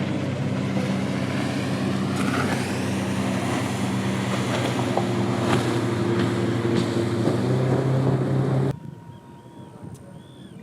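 A boat engine running steadily close by, with wind and water noise over it. About nine seconds in it cuts off abruptly, leaving much quieter surroundings with faint chirping.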